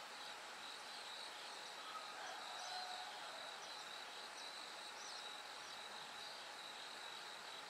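Bell crickets (suzumushi) singing, a steady high ringing chorus over a faint hiss, with a few faint short chirps partway through.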